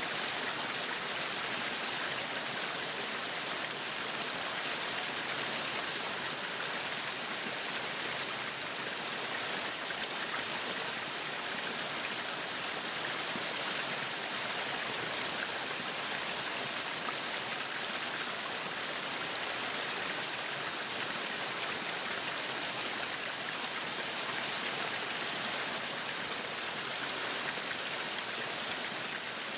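Meat sizzling on a yakiniku grill: a steady, dense crackling hiss that holds even throughout.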